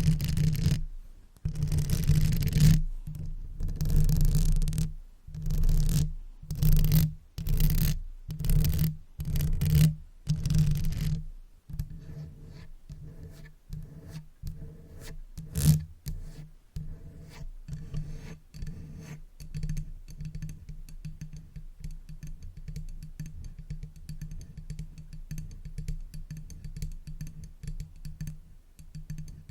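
Makeup brush swept over the microphone in repeated swishing strokes, about one a second. About twelve seconds in it changes to fast, light tapping: a quick run of soft ticks, many a second.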